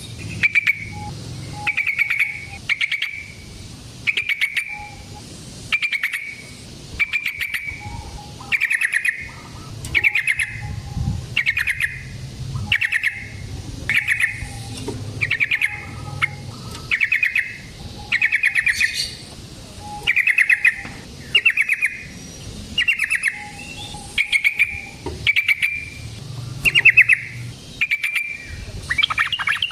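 Yellow-vented bulbul (trucukan) singing: short phrases about once a second, each a quick run of notes, with a longer rapid chattering burst near the end.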